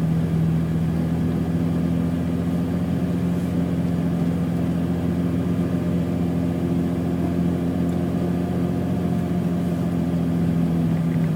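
BMW E28's 3.6-litre engine running at steady, constant revs, after a rise in pitch just before; the note dips slightly right at the end.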